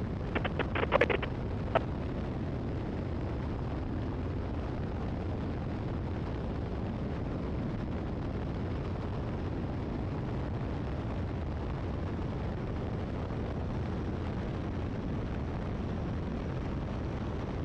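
Steady in-flight engine and wind noise of a Great Lakes open-cockpit biplane cruising, with a few short clicks in the first two seconds.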